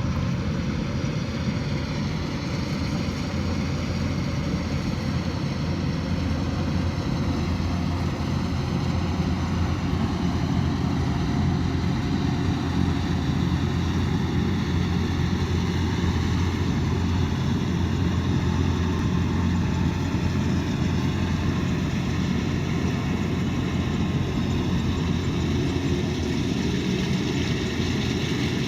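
Kubota DC108X combine harvester's diesel engine and machinery running steadily with a constant low drone, with no sudden events.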